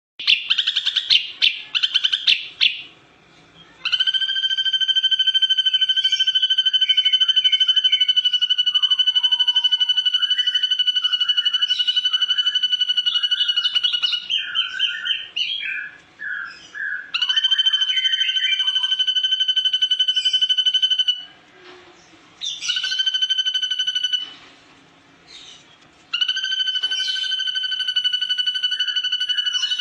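Ashy drongo calling: a quick burst of chirps, then long steady trills held at one pitch for several seconds at a time, broken by shorter, varied chirping notes.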